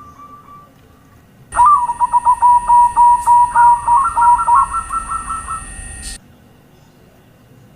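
Zebra dove (perkutut) singing its rapid staccato cooing phrase as a lure song: a quick run of short notes that steps up in pitch partway through and trails off. It starts about a second and a half in and cuts off abruptly after about four and a half seconds.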